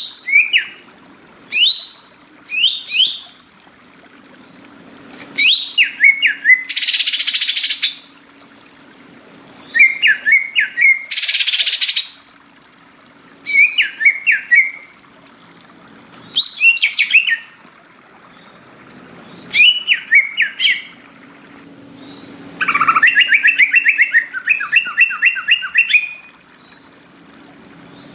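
Green leafbird (cucak ijo) singing in short bursts of rapid, pitch-bending chirps every two to three seconds. Two harsh hissing bursts come in the first half, and a longer fast trill runs near the end.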